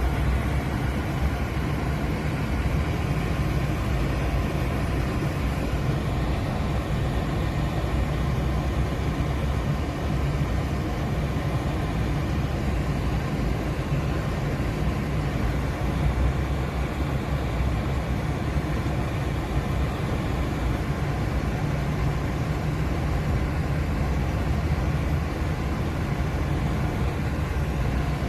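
A steady low rumble and hum that does not change.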